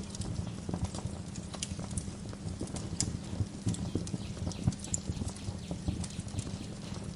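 Wood fire crackling in a fireplace: frequent irregular pops and snaps over a steady low rumble of burning.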